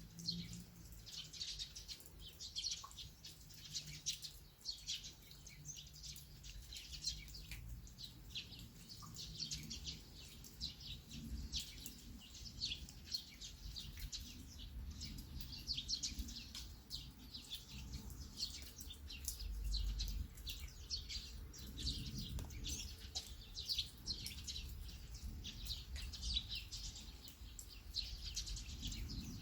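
Rain falling steadily, with small birds chirping almost without pause.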